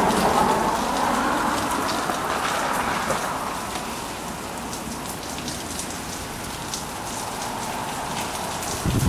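Steady rainfall, with many individual drop hits ticking through it, a little louder in the first three seconds. A brief low thump comes near the end.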